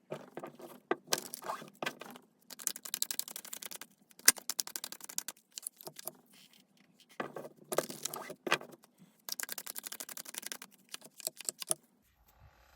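Tarot cards being shuffled by hand in several bursts of rapid papery flicks and rattles, with short pauses between bursts.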